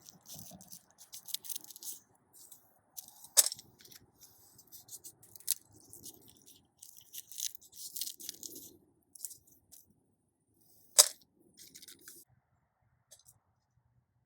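Black bean plants and pods being handled and picked by hand: crackling rustles with two sharp snaps, one about three seconds in and one about eleven seconds in.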